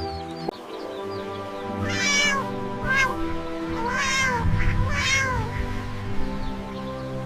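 A cat meowing about four times, roughly a second apart, starting about two seconds in, over steady background music.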